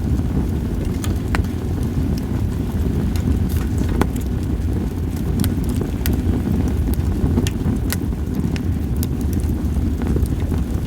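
Campfire of split sawtooth oak (kunugi) logs crackling, with irregular sharp pops, some louder than others, over a steady low rumble.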